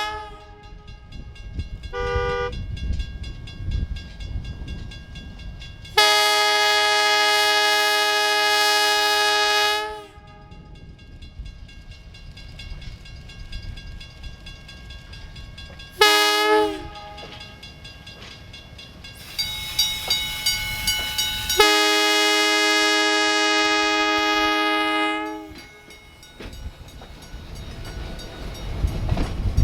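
Train horn sounding a sequence of blasts: a short toot, a long blast of about four seconds, another short toot, then a final long blast. A bell rings quickly just before the last blast, and the low rumble of the approaching train grows near the end.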